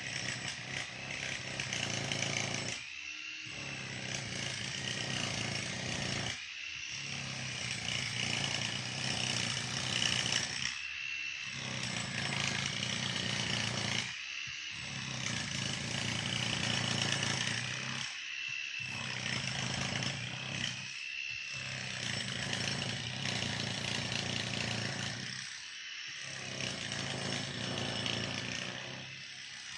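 A steady buzzing like a small engine-driven tool, dropping out briefly and coming back every three to four seconds.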